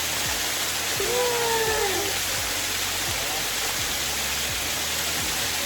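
Waterfall rushing, a steady, loud wash of water noise, with a brief voice sound about a second in.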